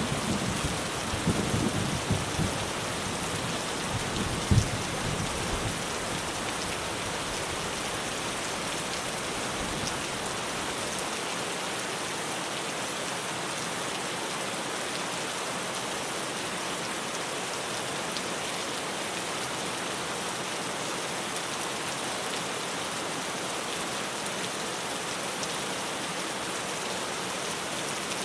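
Steady heavy rain drumming on a tin roof. A low thunder rumble dies away over the first few seconds, with one last swell about four and a half seconds in.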